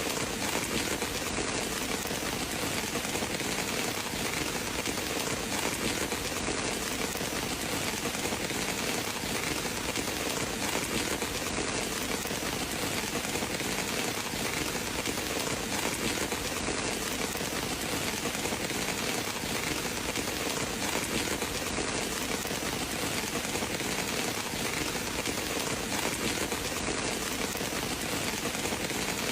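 Steady heavy rain falling and pattering on surfaces, an even, unbroken hiss.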